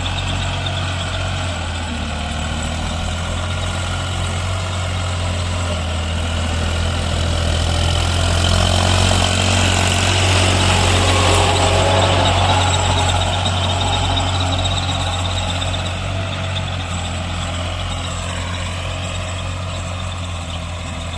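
CASE JX55T tractor's diesel engine running steadily with a deep hum, growing louder around the middle and easing off again.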